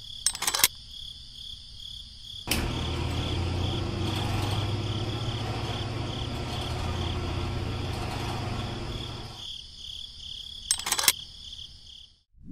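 Small toggle switch on a model petrol pump clicks about half a second in and again near the end. A high, pulsing electronic tone sounds throughout, and a low humming whir runs for about seven seconds in the middle.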